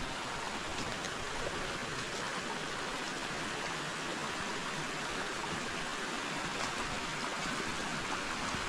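A forest river rushing and babbling steadily, with a few faint ticks and splashes over it.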